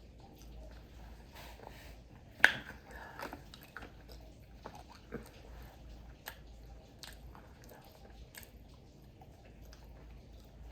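Close-up mouth sounds of someone biting and chewing crispy fried food, with soft smacking and small crunches throughout. There is one loud, sharp bite about two and a half seconds in.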